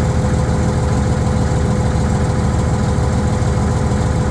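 Diesel engine of a Fiat-Allis HD21B crawler dozer running steadily, a deep even low rumble with a fine rapid pulse and a steady hum above it. The engine has just been brought back to life after sitting a long time.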